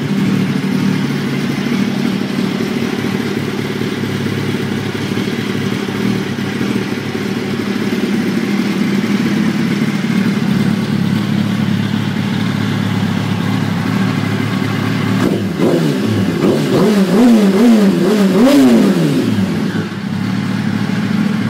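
2004 Yamaha R1's 998 cc inline-four engine idling loudly through a Two Brothers slip-on exhaust. About three quarters of the way through it is revved in several quick throttle blips, each rising and falling, then drops back to idle.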